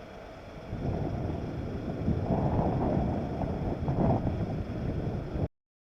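Jet airliner engine noise: a low rumble that swells about a second in, with wind gusting on the microphone, and cuts off abruptly near the end.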